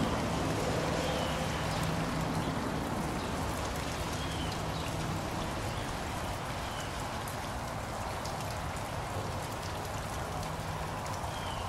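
Wet snow falling steadily, a continuous even hiss much like rain on the ground.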